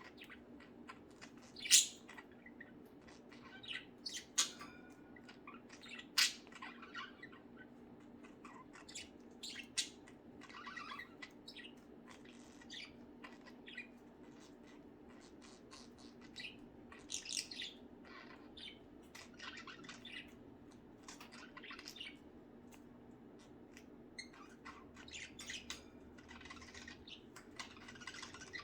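Pet budgerigars chirping and chattering on and off, with a few sharper squawks standing out, over a steady low hum.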